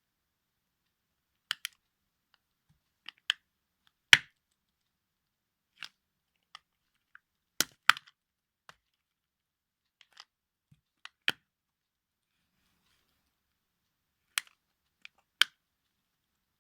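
Toy cars cracking and crunching under a shoe heel: about twenty separate sharp snaps and clicks at irregular intervals, the loudest about four seconds in and again near eight seconds.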